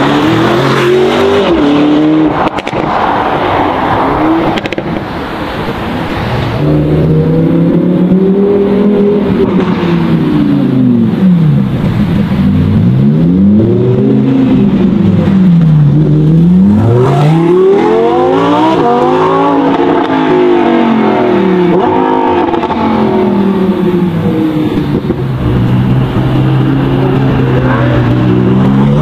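High-performance car engines revving hard and accelerating away, one car after another. The engine note climbs and drops again and again as the revs rise and fall, then settles into a steady lower note near the end.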